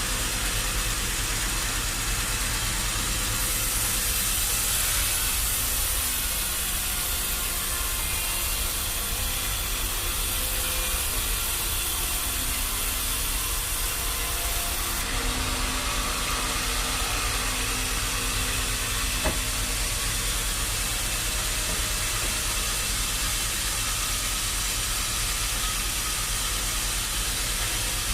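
Machinery running steadily: a low engine rumble under a constant hiss, with one sharp click about nineteen seconds in.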